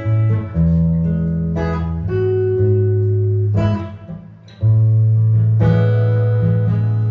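Improvised jazz guitar: plucked chords and low bass notes ringing out, with a new chord struck every second or so. The playing thins to a brief lull about four seconds in before a strong new chord.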